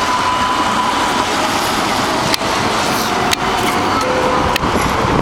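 Road traffic on a rain-soaked street: a steady hiss of tyres on wet pavement, with a few sharp clicks about two, three and four and a half seconds in.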